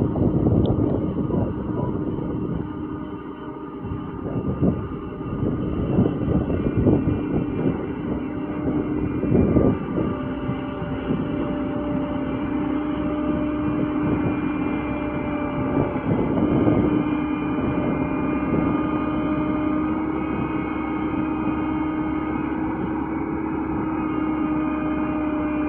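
Road roller's engine running steadily with a held tone. There are irregular rumbling surges in the first ten or so seconds, then an even run.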